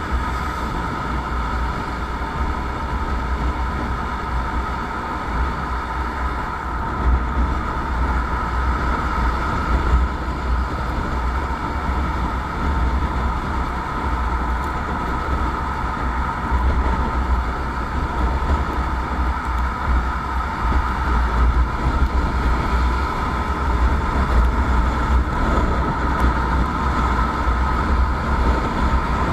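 Motorcycle on the move at a steady pace: engine and road noise under a heavy, uneven rumble of wind on the microphone.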